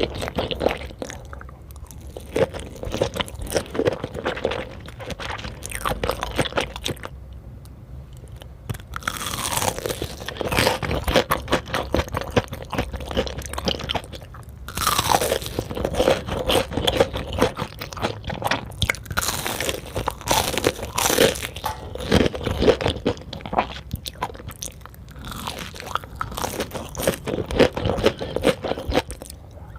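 Close-miked eating of sushi: wet chewing, smacking and crunching, in uneven runs with a couple of quieter stretches.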